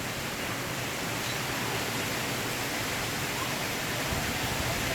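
Heavy thunderstorm rain falling steadily, an even hiss with no breaks.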